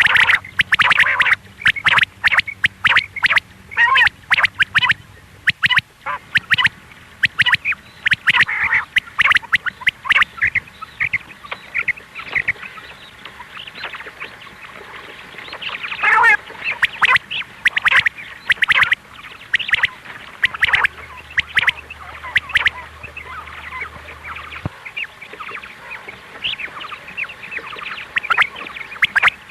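Quail calling, the female quail's call used as a hunting lure: a dense run of short, rapid, repeated calls with little pause between them.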